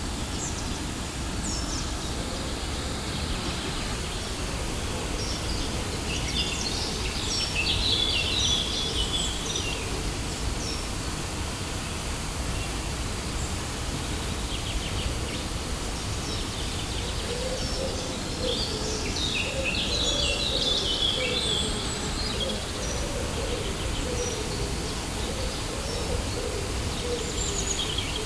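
Steady rush of a waterfall, with small birds chirping over it in two spells, a few seconds in and again past the middle.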